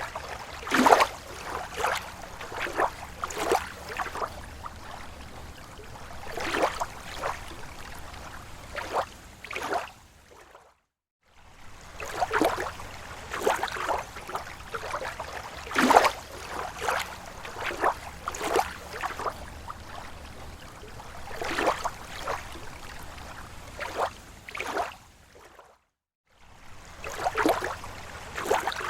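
Small, slow waves lapping against a lake shore: irregular clusters of soft splashes and slaps over a low water rumble. The sound cuts out briefly twice, about eleven seconds in and near the end.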